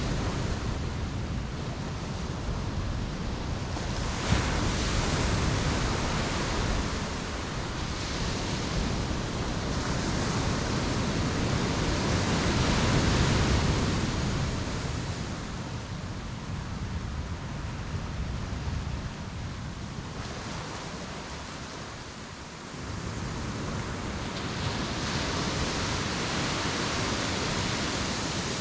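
Ocean surf breaking on a beach, a steady wash of noise that swells and ebbs every several seconds as waves come in and draw back. A single short click about four seconds in.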